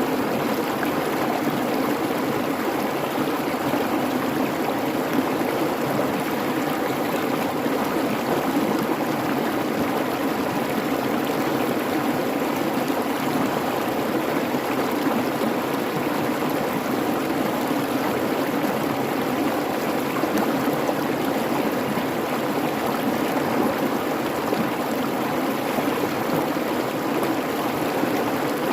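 A creek babbling and rushing steadily over its bed.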